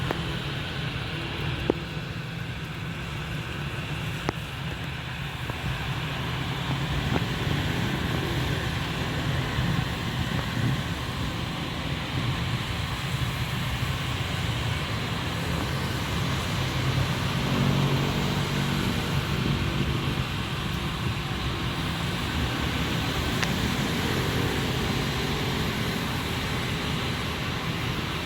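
Airbus A320 jet engines running with a steady, even rumble, with no clear build-up or sudden event.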